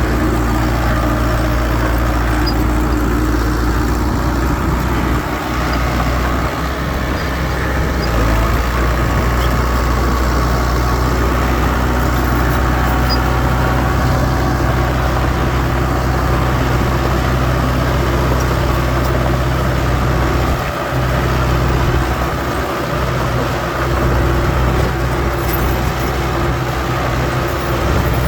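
Heavy earthmoving machinery running steadily: a continuous low diesel engine drone with steady tones, from a dump truck or bulldozer at work.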